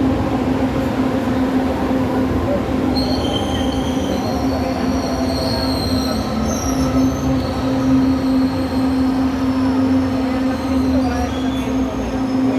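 LRT Line 2 electric train running with a steady low motor hum, its wheels squealing high on the rails from about three seconds in until about seven seconds.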